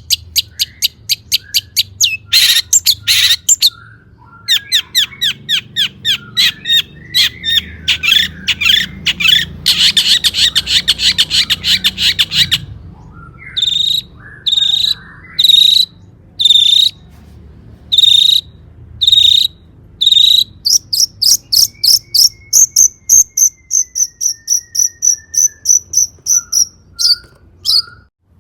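Long-tailed shrike (cendet) singing loudly in a varied stream of sharp, scratchy notes. Around ten seconds in, a dense buzzing trill lasts about two seconds. Evenly spaced single notes follow, about one a second, and then a fast run of higher notes near the end. It is the kind of full, mimicry-filled song that is played as a lure to set other shrikes singing.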